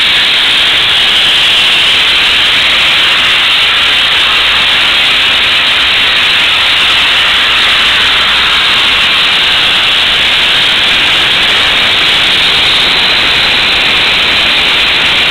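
A loud, steady hiss that runs unbroken, with no change in pitch or rhythm.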